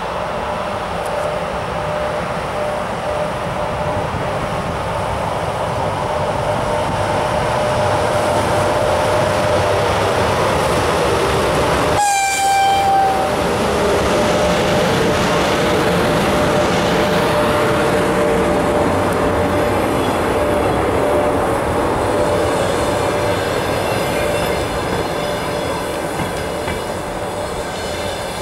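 An EP1M electric locomotive pulls a passenger train slowly past, with a steady whine and rolling noise that grows louder as it draws level. It sounds its horn once, a blast of about a second, about twelve seconds in. The coaches then roll by, with a thin high squeal near the end.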